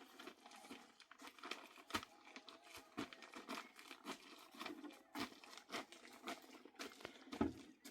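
Irregular crackling and rustling with sharp snaps, about two loud ones, the loudest near the end.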